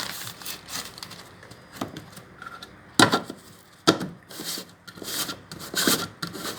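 Kayak rear storage hatch and its basket being handled: rustling and rubbing, with two sharp knocks about three and four seconds in.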